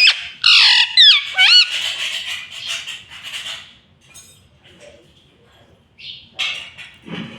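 Pet green parrot squawking: loud, high-pitched calls that swoop up and down over the first two seconds, then quieter rough chatter, a short pause and another brief burst of calls near the end.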